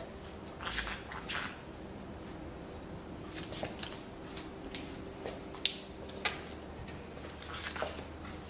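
A conure preening close by: soft feather rustles and beak nibbling, with a few sharp beak clicks, the loudest two a little past the middle.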